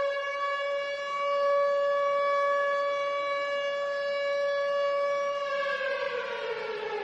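A siren wailing: one long pitched tone that holds steady for about five seconds, then falls in pitch near the end.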